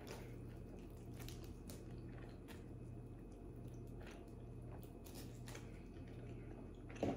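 Quiet chewing of pepperoni pizza, with faint wet mouth clicks scattered through, over a low steady hum. A short, louder mouth sound comes near the end.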